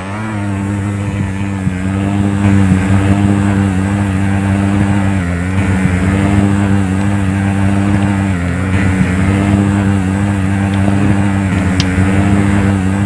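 Small DC motor driving the fan of a homemade cardboard air cooler, running with a steady hum whose pitch dips briefly twice.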